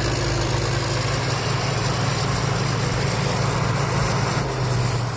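Thai Seng Yont Chao Payu 4.0 combine harvester's engine running steadily, with a thin high whine over it that slowly drops in pitch.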